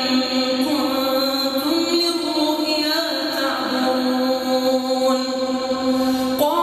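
A single voice reciting the Quran in a melodic, chanted style, drawing out long held notes that step up and then down in pitch. A short break comes near the end, followed by a rising glide into a new phrase.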